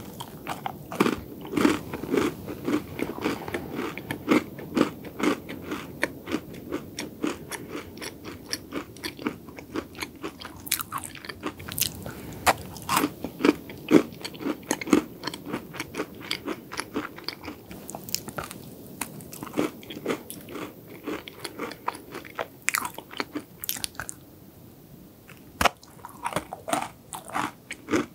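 Biting and chewing a hard double chocolate cookie: a crisp bite, then rhythmic crunching chews. There are two short quieter pauses, and the crunching starts up again near the end.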